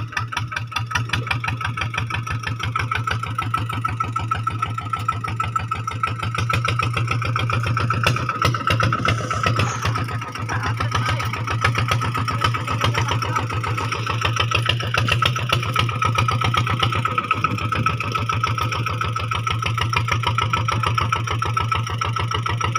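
An engine running steadily, with a fast, even pulsing beat; it grows a little louder about six seconds in and dips briefly near ten seconds.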